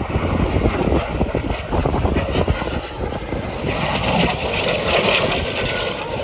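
An aerobatic airplane's engine and propeller running as the plane flies its display, the sound turning harsher and higher about four seconds in.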